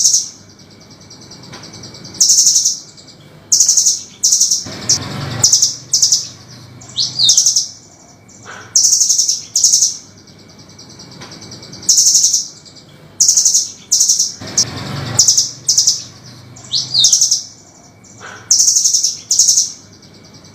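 Velvet-fronted nuthatch calling in harsh, high, rattling bursts of about half a second, one every second or so, with a short rising note twice. A duller low noise also sounds twice, about ten seconds apart.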